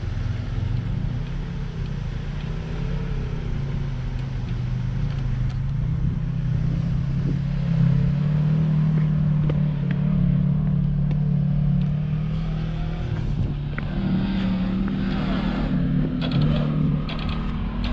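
Jeep Wrangler JL Rubicon engine running steadily, its pitch stepping up a little about six seconds in and wavering again near the end, with a few light clicks.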